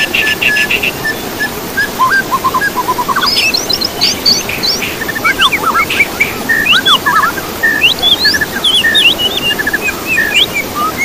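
Songbird singing a rapid, varied string of short whistled notes and quick rising and falling sweeps, after a fast buzzy trill that stops about a second in, over a steady background hiss.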